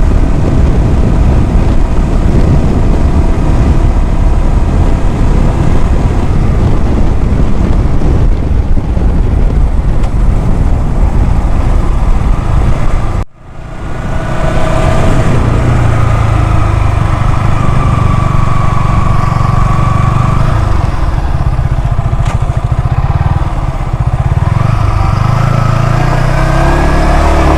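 Motorcycle riding, its engine running under heavy wind rumble on the microphone. About halfway through the sound cuts out for a moment, then returns with a steadier engine hum.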